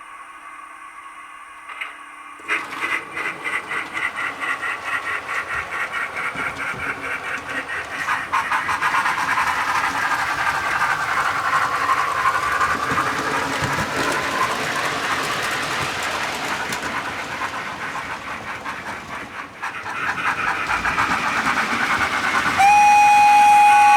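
Soundtraxx Econami UK steam sound decoder in a Hornby BR 9F model locomotive, playing through its small speaker: a steam engine pulling away. Rhythmic chuffs start about two and a half seconds in and quicken into a steady rush, then a loud steady whistle sounds near the end.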